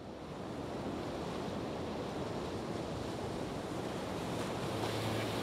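Steady rushing hiss of a car driving in the rain, tyres on a wet road, fading in over the first second. A low steady hum joins near the end.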